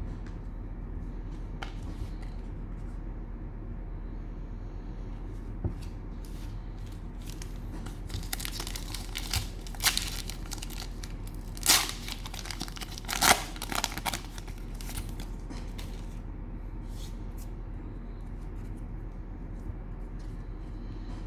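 Cellophane wrapper of a trading-card cello pack being torn open and crinkled. It comes as a run of tearing and crackling sounds from about eight to fifteen seconds in, over a steady low hum.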